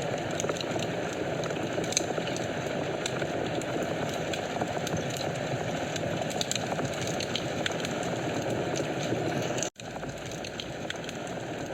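Wood fire crackling in a fireplace: a steady hiss of flames with frequent small sharp pops and snaps. The sound cuts out for an instant near the end, then resumes slightly quieter.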